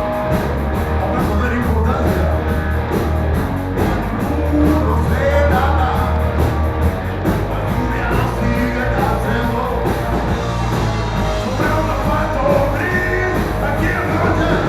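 Rock band playing a song live, with electric guitar, a steady bass line, drums and singing.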